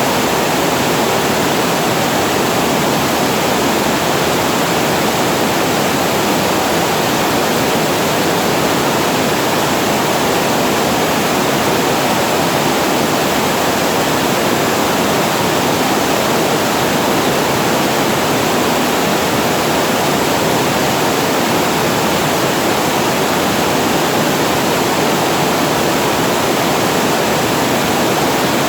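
Water pouring over a weir and falling into the pool below: a steady, even rush that does not change.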